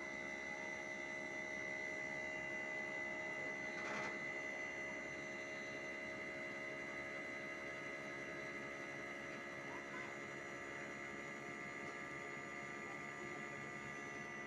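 Hitachi 1-ton split air conditioner outdoor unit running with a steady hum and a high whine, its RPM up: the noise the unit has been making.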